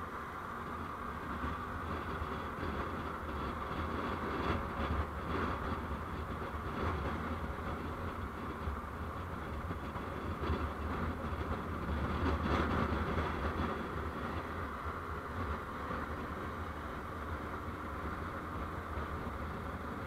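Steady road and engine noise from a vehicle on the move, a little louder with some rattly peaks about four to six seconds in and again around twelve seconds.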